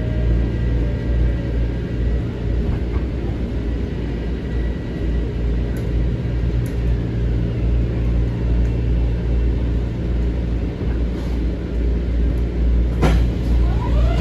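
Steady low rumble inside an M7 electric railcar. Faint whining tones fade away in the first couple of seconds, a sharp knock comes about thirteen seconds in, and a rising whine starts near the end.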